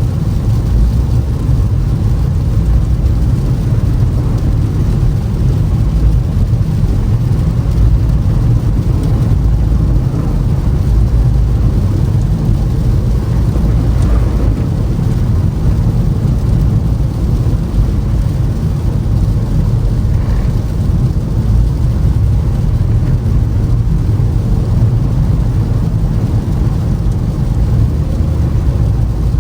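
Toyota Camry driving on a snowy road, heard from inside the cabin: a steady low rumble of tyre and engine noise.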